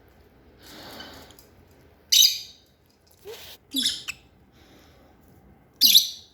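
Lovebirds giving short, sharp, high-pitched chirps: three loud ones about two seconds apart and a softer one between, with a soft hiss about a second in.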